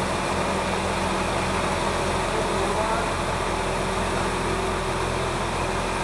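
Large farm tractor's diesel engine running steadily, with voices faintly in the background.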